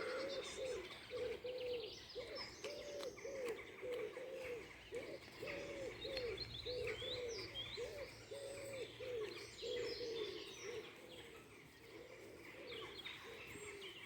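Woodland birds calling: low arched notes repeating about two or three times a second for most of the stretch and fading out near the end, with the higher short chirps of small songbirds over them.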